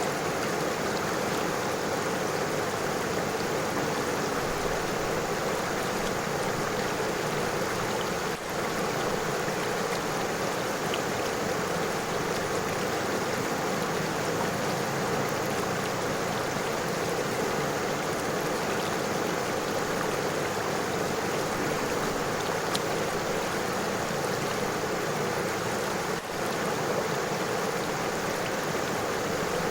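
River water flowing over stones, a steady even rushing that dips briefly twice.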